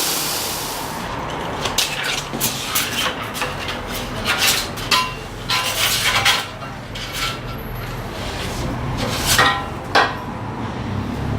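A power tool's steady grinding hiss dies away in the first second, followed by irregular metallic knocks and clinks of metal parts and tools being handled on a workbench.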